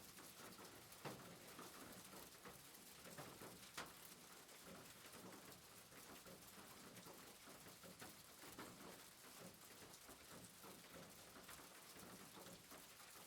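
Faint, soft rain pattering steadily, with two sharper taps about one and four seconds in.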